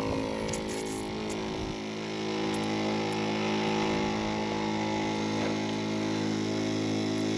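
Quad bike engine running at a steady idle, an even, unchanging drone.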